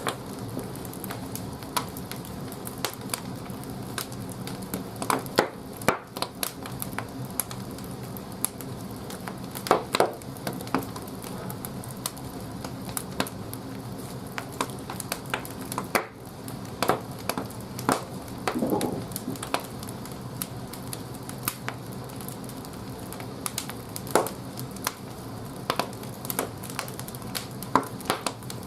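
Large firewood burning in an old wood-fired bathhouse boiler's firebox: irregular crackles and sharp pops over a steady low hum.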